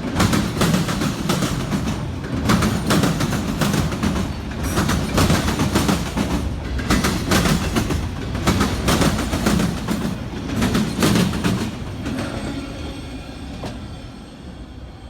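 Freight train cars rolling past, with a rapid clickety-clack of wheels over rail joints above a low rumble. About twelve seconds in the sound starts to die away as the end of the train passes and recedes.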